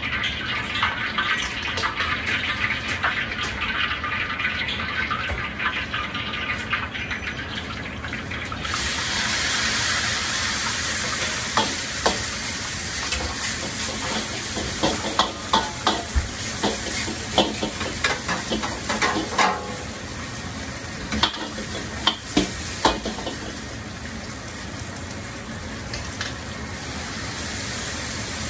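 Eggplant strips and noodles frying in hot oil in woks on a restaurant range: a steady sizzle that jumps sharply louder a third of the way in, as the eggplant goes into the oil. Midway through comes a run of sharp metal clinks from a ladle knocking against the wok.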